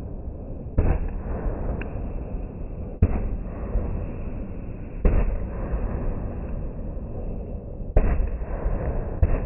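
Fireworks going off: about five sharp bangs a couple of seconds apart, each trailing off into a low rumble.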